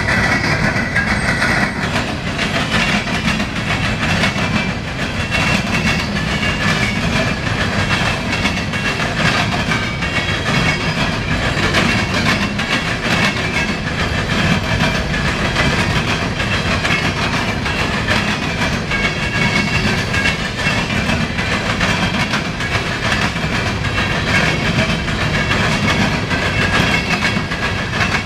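Norfolk Southern coal train rolling past at track side, with a steady rumble and rapid clickety-clack of wheels over rail joints. The tail of a locomotive horn blast ends in the first two seconds.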